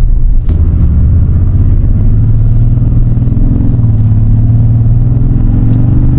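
A truck's engine running steadily with a low rumble, its pitch rising slowly about halfway through and again near the end as it picks up revs. A sharp click comes about half a second in.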